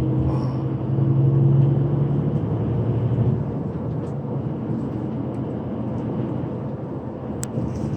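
Intercity bus running at speed, heard inside the cabin: a steady low engine and drivetrain hum over road and wind noise, the hum strongest for the first few seconds and then easing off. A single short click comes near the end.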